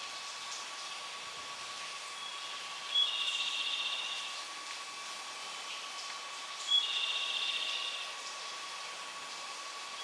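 A short electronic signal repeating about every four seconds, each time a brief high blip followed by about a second of warbling high tone, over a steady high-pitched hum.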